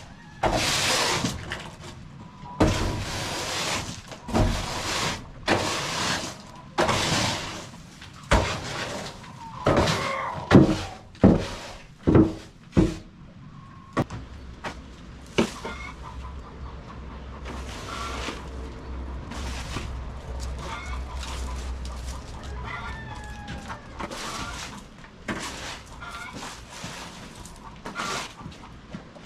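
Chickens clucking among a run of short rustling, scuffling noises. About halfway through, a low steady hum sets in and faint short calls go on over it.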